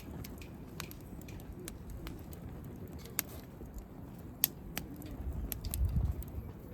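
Campfire wood crackling, with scattered sharp pops. A low rumble swells up about five seconds in.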